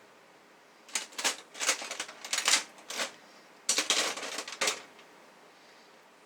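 Clicking and clattering of small hard parts being handled on a workbench, in two spells: a longer one starting about a second in and a shorter one near the middle.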